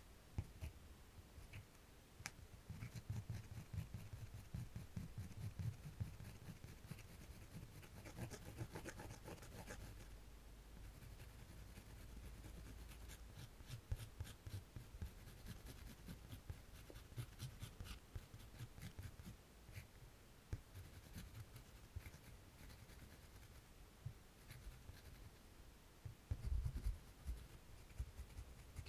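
Faint, close-up scratching of a drawing tool on paper: irregular short strokes and small ticks as ears are sketched by hand.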